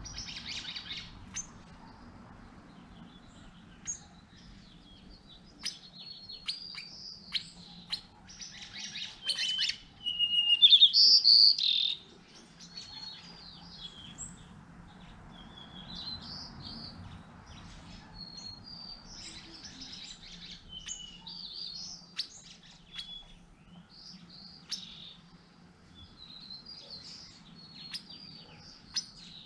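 Wild birds chirping and calling in short, scattered phrases, with one loud run of song from about nine to twelve seconds in.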